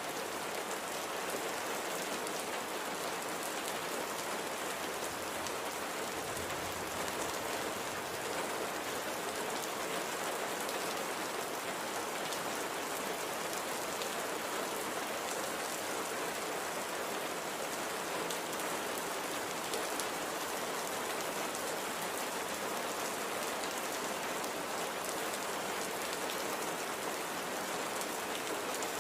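Steady light rain falling on a surface, an even hiss filled with many small drop ticks.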